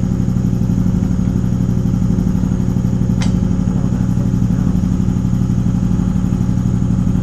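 An engine idling steadily, with one sharp click about three seconds in.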